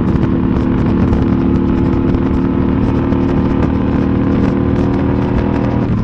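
Suzuki Boulevard C50T's 805 cc V-twin running at a steady cruising speed through Vance & Hines Cobra aftermarket exhaust, its note holding an even pitch.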